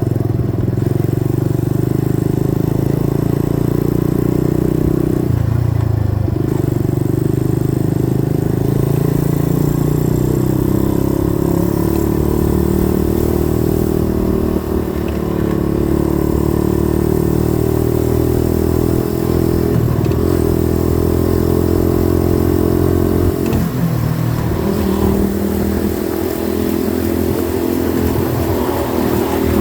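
90cc dirt bike engine running steadily while riding, its pitch dropping and rising a few times as the throttle changes.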